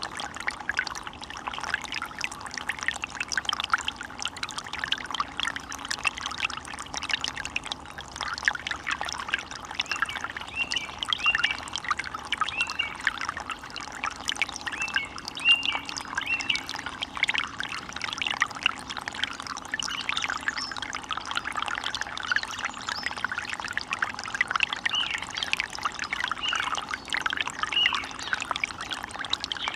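Stream water splashing and trickling steadily over stones.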